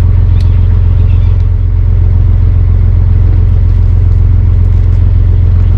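The barge's inboard engine running steadily at cruising speed, a loud, even low drone heard from on board.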